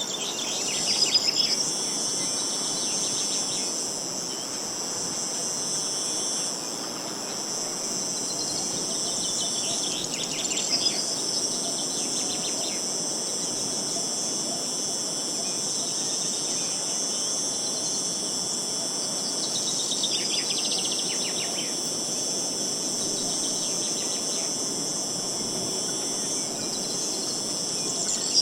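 Steady high-pitched chorus of insects, with wild birds calling in short falling trills three times over it.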